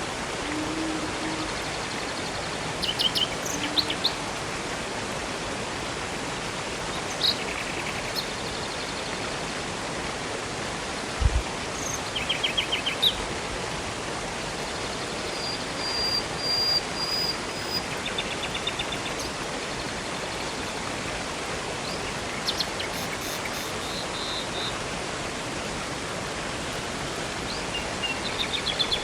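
Steady rushing of a river and waterfall, with songbirds calling in short chirps and quick trills scattered throughout. A single low thump about eleven seconds in.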